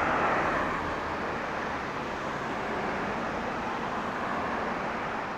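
Road traffic noise: a steady rushing hiss that cuts in suddenly and is a little louder in the first half second.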